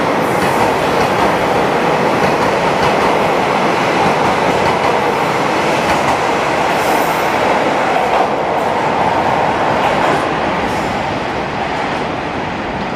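A train running along the station track at close range, its wheels and running gear making a steady rumble that grows quieter over the last few seconds.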